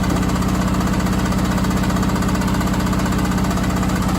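Candy SmartTouch washing machine on its final spin with an unbalanced load. The drum is running at high speed and the machine vibrates with a fast, even pulse over a steady hum.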